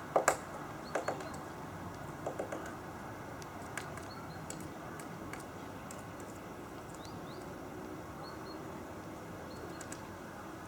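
Great spotted woodpecker pecking: a few sharp, irregular knocks, mostly paired, in the first three seconds, then only a faint tap or two.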